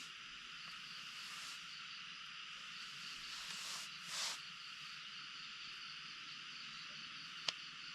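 Steady high chorus of insects and frogs in the forest, with a brief rustle about four seconds in and a single sharp click near the end.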